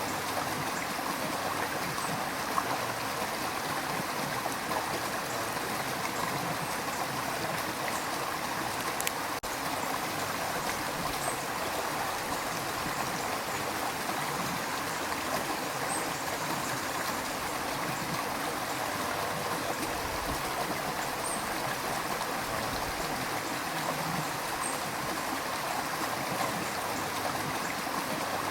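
River water rushing and gurgling over rocks in a steady, even wash of sound, with small splashes scattered through it.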